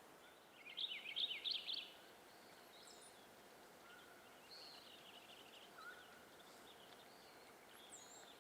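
Wild songbirds singing in a forest: a rapid burst of chirping song about half a second in, the loudest part, followed by softer scattered chirps and a few short whistled notes over a faint steady hiss of ambience.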